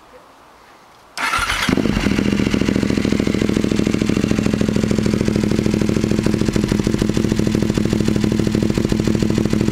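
Aprilia Dorsoduro 1200's V-twin, fitted with an aftermarket GPR exhaust, starting about a second in. A brief burst of cranking is followed by the engine catching and settling into a steady, loud idle.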